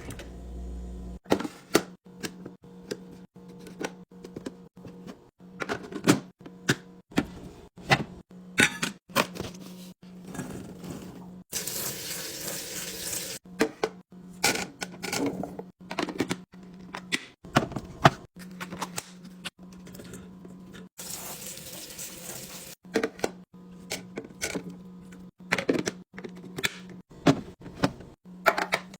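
Containers, bottles and packages being handled and set down while restocking a fridge: a string of clicks, taps and knocks, with two longer stretches of rushing noise, one about twelve seconds in and one about twenty-one seconds in.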